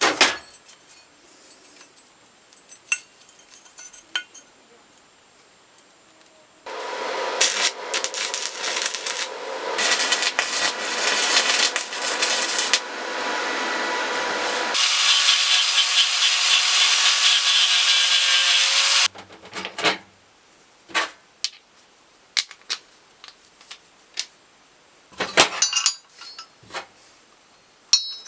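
Tool work in a workshop: about eight seconds of rough sawing or rasping that starts about seven seconds in, then a steadier, higher hiss for about four seconds, followed by scattered clicks and knocks.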